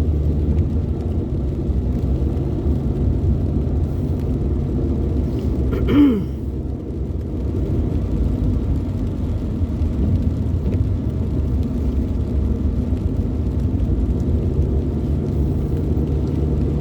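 Steady engine and road rumble inside a moving car's cabin. About six seconds in comes one short, louder sound that bends in pitch.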